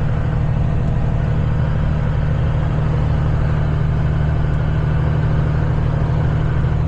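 Semi truck's diesel engine running steadily at cruise, with a constant low drone and road noise.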